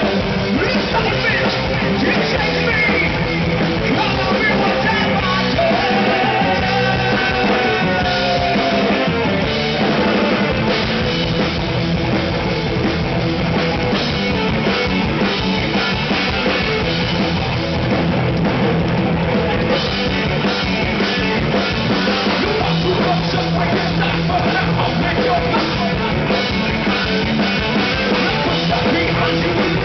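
Heavy metal band playing live, with electric guitars, bass and drum kit. A lead guitar line bends in pitch during the first ten seconds.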